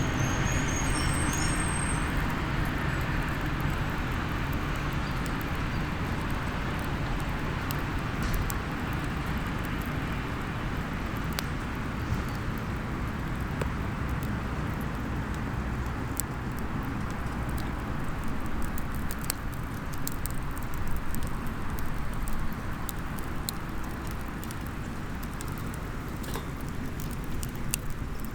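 Small wood campfire crackling, with scattered sharp pops over a steady low background rumble.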